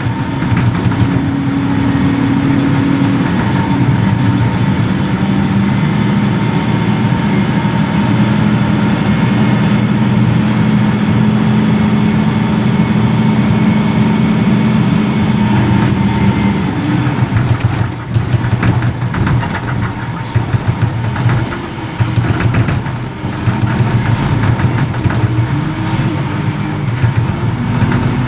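Reach stacker's diesel engine running steadily at raised revs. About two-thirds of the way through it eases off and the sound turns uneven.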